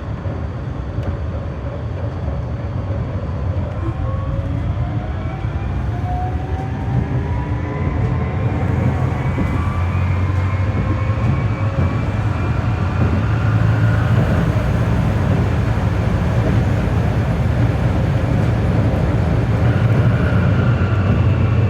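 GT-type (GTZO) tram heard from on board, accelerating: its traction motors whine in several tones that climb in pitch over about ten seconds, over a steady low rumble of the wheels on the rails, and then level off and begin to drop near the end.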